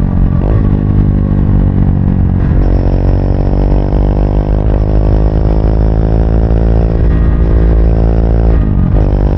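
Triumph Speed 400's single-cylinder engine running while riding, its pitch shifting abruptly a few times as the revs change with gear shifts and throttle.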